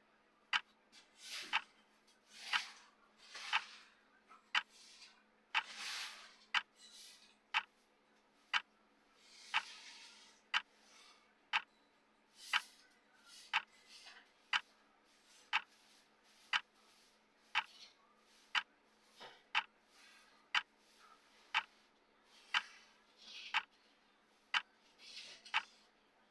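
Clock-style ticking from a countdown timer, one sharp tick each second at an even pace. Softer hiss-like noises come and go between some of the ticks.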